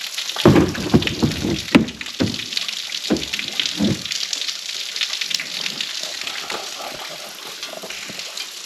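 Small waterfall splashing onto rock, a steady rushing spatter, with a few dull low thumps in the first four seconds.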